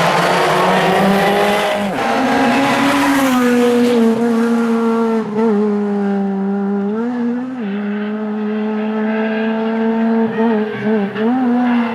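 Rally car passing at speed, loud and noisy for the first few seconds. Its engine note then holds fairly steady, with a few short dips and rises in pitch as the throttle is eased and reapplied.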